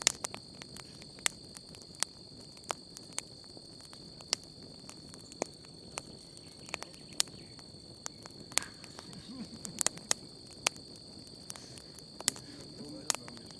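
Wood campfire crackling, with irregular sharp pops and snaps, over a steady high chirring of crickets.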